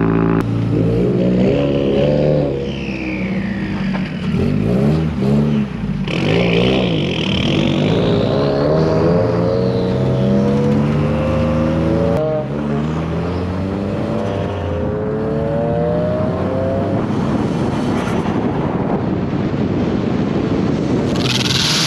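Mazda3 hatchback's engine pulling away and accelerating: revs climb in long rising sweeps through the gears, dropping at a shift about twelve seconds in and rising again before settling to a steadier cruise. A higher whine rises and falls with the revs.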